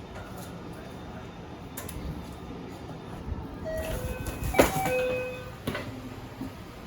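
Steady low rumble of a standing train at a station platform. About four seconds in come several brief high tones and one sharp loud knock, then a smaller knock.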